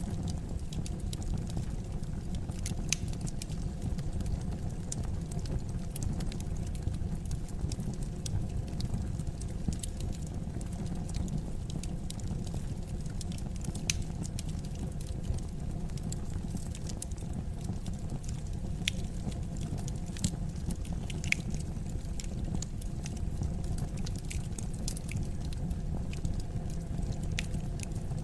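Wood fire burning in a fireplace: a steady low rumble of flames with irregular crackles and the occasional sharper pop.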